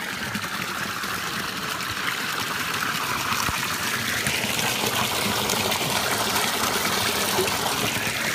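Water running steadily from a village spout fountain (çeşme).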